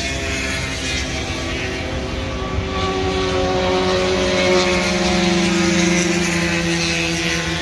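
Motorcycle engine running, a steady drone whose pitch eases slowly downward as it slows.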